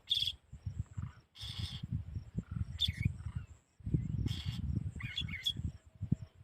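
Short, high bird chirps, a few at a time, heard at the start, about three seconds in and about five seconds in, over a constant low rumble and a few hissy bursts like wind on the microphone.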